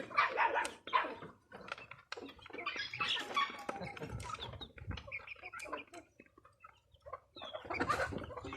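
Backyard chickens clucking in short, irregular calls, mixed with scattered light clicks.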